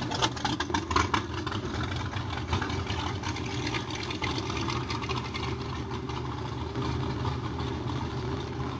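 Car engine idling steadily, with a few sharp clicks in the first second.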